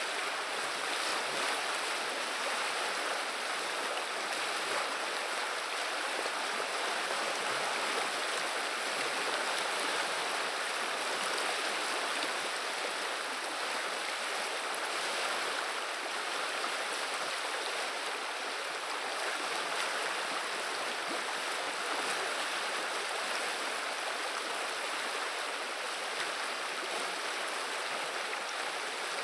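River water flowing and burbling steadily, a constant rushing hiss with no breaks.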